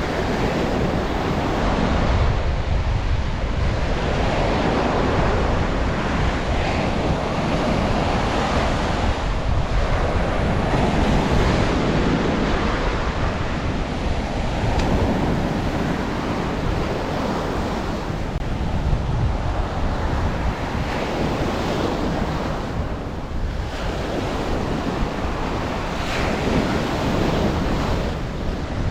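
Ocean surf breaking and washing up a sandy shore, a continuous hiss that swells and eases every few seconds. Wind buffets the microphone with a low rumble underneath.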